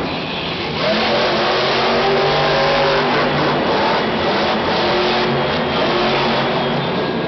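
Monster truck's supercharged V8 engine running at high revs. Its pitch climbs about a second in and holds, eases off around three seconds, then rises and holds again.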